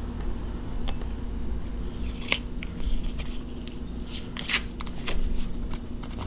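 Several sharp snips and clicks of cutters trimming plastic zip ties, spaced a second or two apart.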